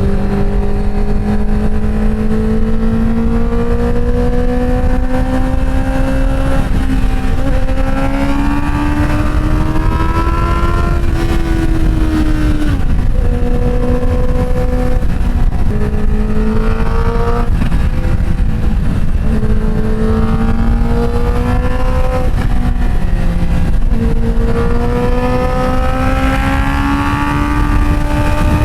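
Inline-four motorcycle engine running at cruising speed. Its pitch climbs slowly and falls back several times, around a third, half and two thirds of the way in, over steady wind rush.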